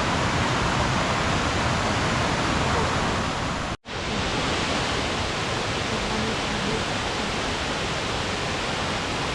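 Steady roar of the Hérisson waterfall, loud rushing water. The sound cuts out for a split second about four seconds in, then the roar resumes.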